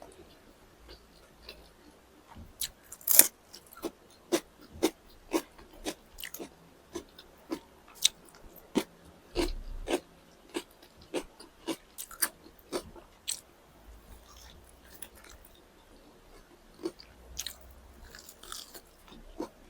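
Close-miked mouth sounds of eating chicken drumsticks and rice: chewing and biting with sharp, crunchy clicks, about two a second through the middle stretch, then softer chewing near the end.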